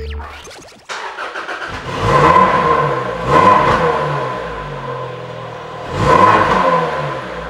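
A car engine starts about a second in, then is revved three times, its pitch rising and falling back with each blip before it settles and fades.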